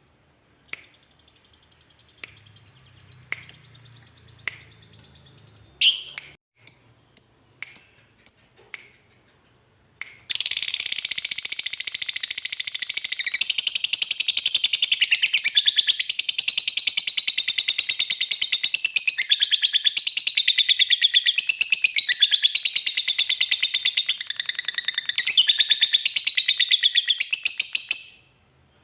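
Lovebird calling: a few scattered short chirps for about ten seconds, then a long, rapid, high-pitched chattering trill, the 'ngekek panjang', that runs for nearly twenty seconds and stops abruptly.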